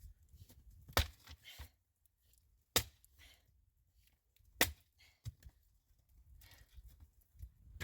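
Three sharp knocks, evenly spaced about two seconds apart, with a few fainter taps between them.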